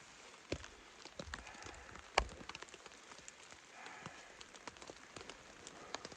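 Rain pattering on the fabric of a teepee shelter, with irregular sharp drip taps and one louder knock about two seconds in.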